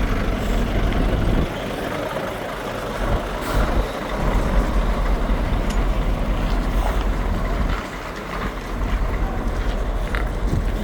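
Heavy truck diesel engines running with a steady low rumble.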